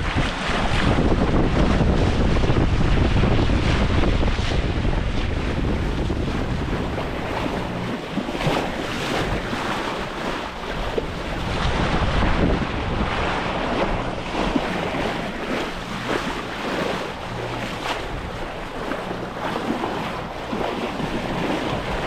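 Wind buffeting the microphone over the rush of waves and water along the hull of a sailing yacht under way at sea. The low wind rumble is heaviest for the first several seconds, then eases.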